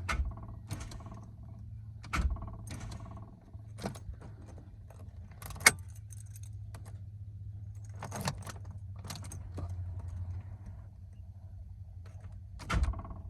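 Car keys jangling in the ignition of a Ford Falcon BF XR6 as the key is turned again and again, with a dozen or so sharp clicks, the loudest a little before the middle. The engine does not crank: the starter only clicks without turning it over, the car having stalled and refusing to restart.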